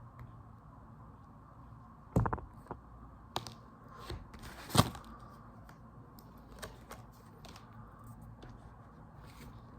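Scattered small clicks and taps of phone parts and hand tools being handled on a repair bench, the loudest a quick cluster about two seconds in and a sharp knock just under five seconds in.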